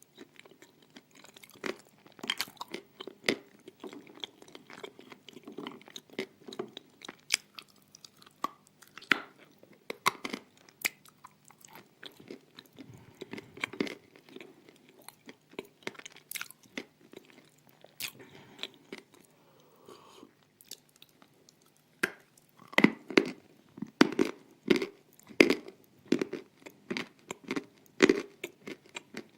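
Someone biting and chewing dry, hard pieces of edible clay: irregular sharp crunches that grow louder and come thicker in the last several seconds.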